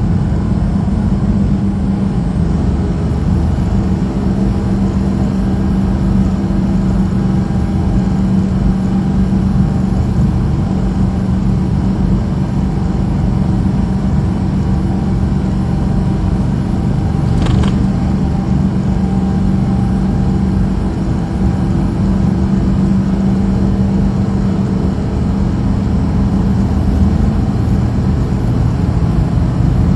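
Steady drone of a truck's engine and road noise while driving, with a strong, even hum. There is one brief click a little past halfway.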